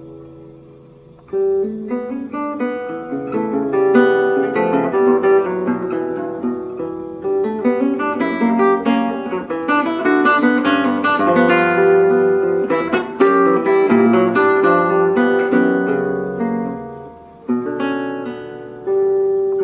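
Solo acoustic guitar playing a fast, dense passage of plucked and strummed notes. It comes in loudly after a short lull about a second in, and dips briefly near the end before going on.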